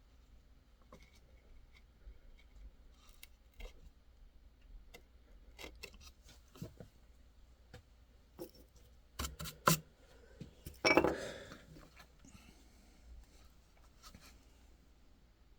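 Hand carving in white birch: a carving tool cutting and scraping the hard wood in short, irregular strokes and clicks, with a few sharper knocks and a louder clatter about eleven seconds in.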